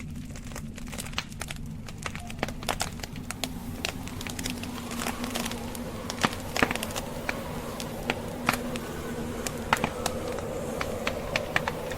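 Log fire crackling, with many irregular sharp snaps and pops, over a steady low rumble of blizzard wind.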